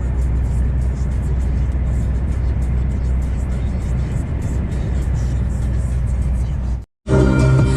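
Steady low drone of a truck's engine and tyre noise heard from inside the cab while driving on a snowy road. About seven seconds in it cuts off abruptly and music starts.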